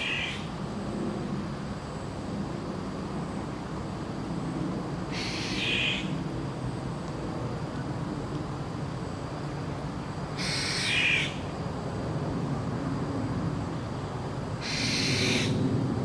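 A bird's harsh, raspy call, repeated four times about five seconds apart, each lasting under a second, over a steady low rumble.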